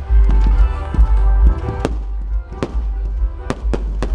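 Fireworks going off in quick succession: a string of sharp bangs and crackles over deep booms, with music playing alongside.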